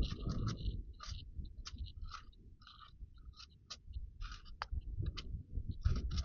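Thin Bible pages rustling and crinkling as they are handled and turned, in quick irregular crackles over a low handling rumble.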